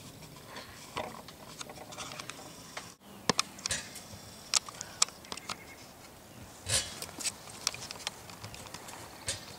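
Irregular light clicks, taps and knocks of things being handled, a few with a brief ring, with a sudden break about three seconds in.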